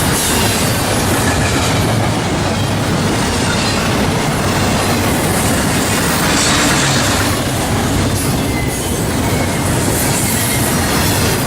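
Norfolk Southern train rolling past, a loud, steady noise of steel wheels running on the rails.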